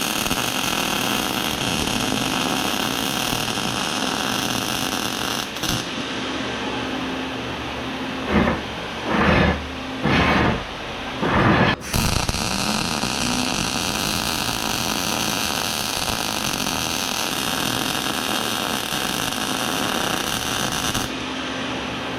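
Cordless angle grinder running steadily against scrap steel, with a few short louder surges about eight to twelve seconds in.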